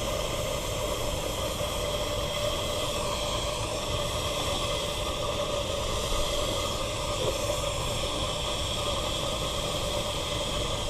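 Steady hiss of steam from a 3-inch scale Fowler model steam traction engine in steam.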